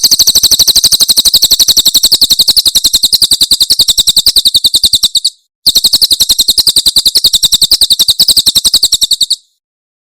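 Cililin songbird giving its 'tembakan' call: a rapid, high-pitched run of the same note repeated about ten times a second. It breaks off about five seconds in, then starts again and stops a little before the end.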